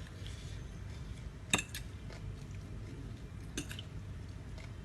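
Cutlery clinking against a dish during a meal: a few sharp clinks, the loudest about a second and a half in.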